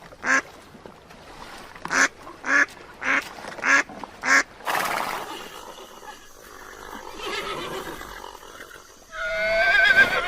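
Animal calls: a run of six short calls about half a second apart, a brief noisy rustle, then one long call that wavers up and down near the end.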